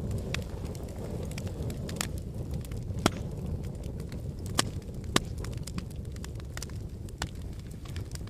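Fire in a fireplace crackling: a steady low rush of flames with irregular sharp pops and snaps, the sharpest a few seconds in.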